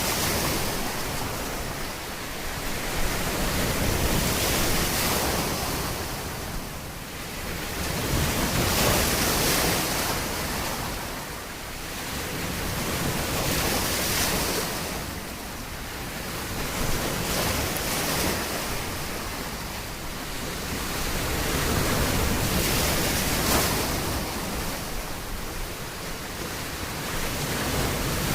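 Waves breaking and washing up a beach, the surf swelling and falling back every four to five seconds.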